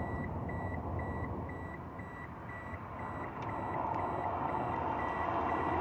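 Electronic beeping, about two short high beeps a second, like a vehicle's reversing alarm, over a low rumble that grows louder near the end.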